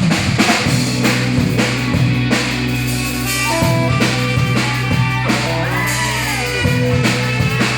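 Electric blues-rock band playing, with a drum kit keeping a steady beat over a held low droning note. Through the middle come notes that bend up and down in pitch.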